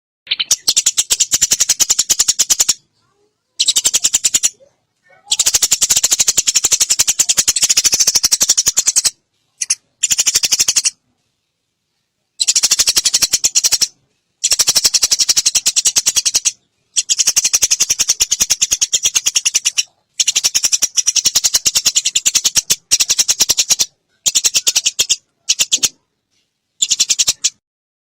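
Eurasian tree sparrows fighting: fast, dense chattering chirps in bursts of one to four seconds, each cutting off abruptly into silence.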